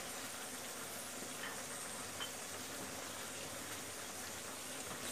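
Beef pieces frying and bubbling in their juices in a wok, a steady even hiss.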